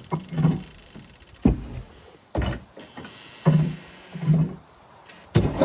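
Irregular thuds and scrapes, about one a second, from old straw bedding being pushed out of a chicken coop.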